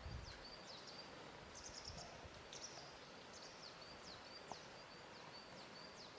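A small bird singing repeatedly in high, thin notes broken by quick downward-sweeping chirps, over a faint steady outdoor hiss. Soft low water lapping sounds just after the start and again about two seconds in.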